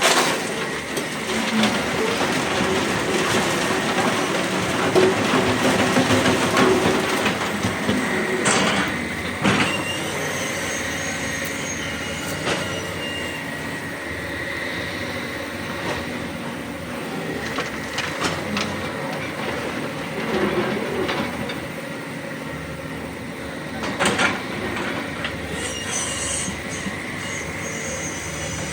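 Hydraulic excavators digging rock: diesel engines running under load with the hydraulics working, metal grinding and scraping, and a steady high whine. There are a few sharp knocks of the bucket on rock, one about eight and a half seconds in, another a second later, and one near the end.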